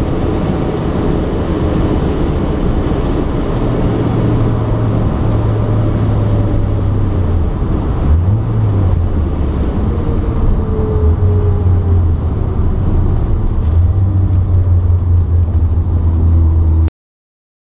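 Inside the cabin of a 1972 Mazda RX2 with a turbocharged 13B rotary engine, the engine runs steadily at moderate revs as the car rolls down the track after a drag pass. Its pitch briefly dips and rises about halfway through, and the sound cuts off suddenly about a second before the end.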